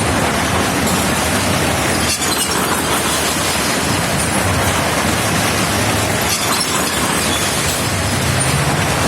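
Motorcycle and car engines running as they circle the wall of a Well of Death, heard as a loud, steady, distorted noise with a low engine hum that rises in pitch in the second half.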